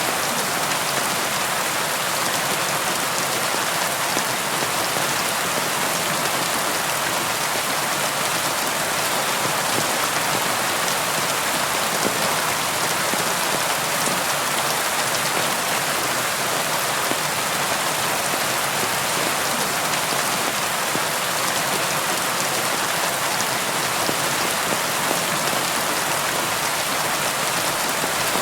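Steady rainfall: an even hiss of rain with fine scattered drop ticks, unchanging in level throughout.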